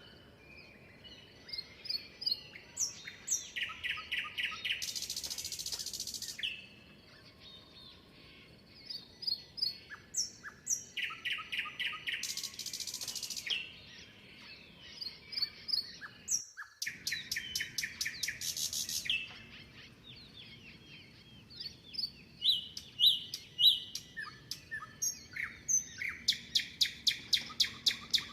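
Several birds singing: phrases of rapid repeated chirps and trills that come and go every few seconds, with quieter calls between them.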